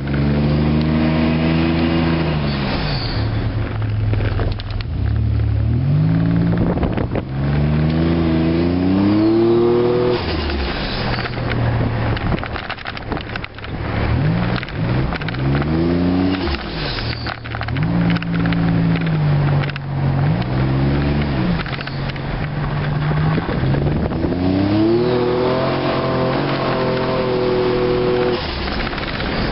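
Buick Grand National's turbocharged 3.8-litre V6 pulling hard several times, its note rising through each pull and falling when the throttle closes. Each lift-off brings a brief hiss from the aftermarket Godzilla blow-off valve venting boost.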